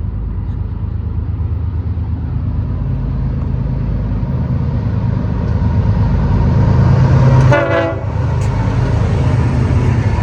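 Diesel train running through the station with a steady low rumble that slowly grows louder, and a short horn toot about three-quarters of the way through.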